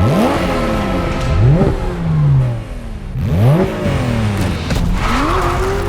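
Porsche 911 R's naturally aspirated 4.0-litre flat-six revving, its pitch climbing quickly and falling back several times as the car is driven hard.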